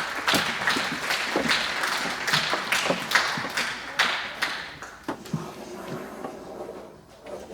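Audience applauding with many irregular claps, the clapping thinning and dying away about five seconds in.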